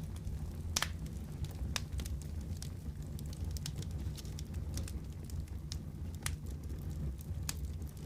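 Wood fire burning in a fireplace: a steady low rumble with irregular sharp crackles and pops, the loudest about a second in and near the end.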